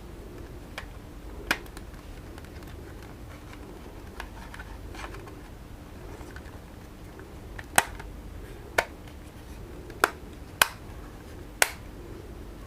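Plastic parts of FPV goggles being handled and clicked into place: a sharp click about a second and a half in, then five more sharp clicks in the last five seconds, with quieter handling rustles between.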